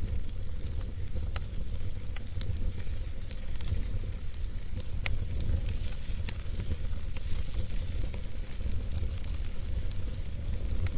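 Wood fire burning in a fireplace, crackling with scattered sharp pops over a steady low rumble and hiss.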